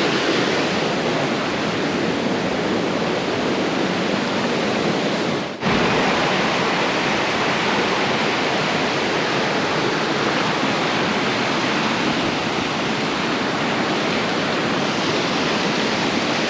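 Water rushing steadily close by, a dense, even noise with no let-up. It is broken once by a very brief drop about five and a half seconds in.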